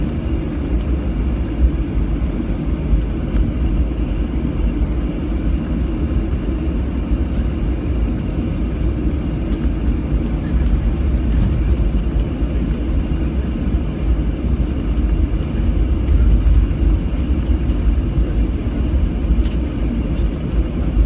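Steady low rumble of cabin noise in a Boeing 737-700 on the ground, its CFM56-7B engines running at idle as it taxis toward the runway.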